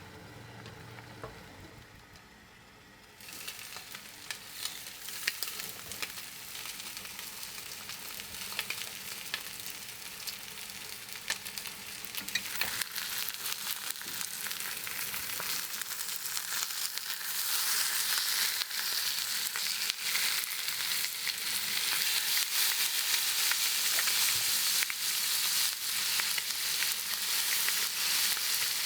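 Food frying in a hot pan, sizzling with dense crackles. It starts suddenly about three seconds in and grows louder later on.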